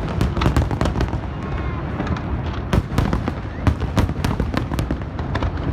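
Aerial fireworks display: a rapid run of sharp bangs and crackling bursts over a continuous low rumble of shells going off.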